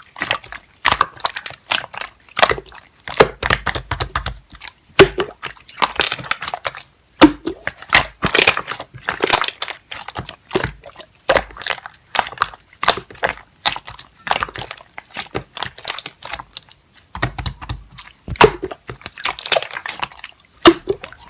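Slime being squished and pressed by hand: a fast, irregular run of wet clicks and pops.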